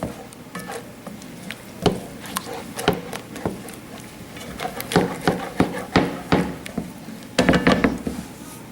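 Whisk clicking and scraping against a pan while stirring a thickening milk-and-flour sauce, in irregular taps with a denser, louder stretch of stirring near the end.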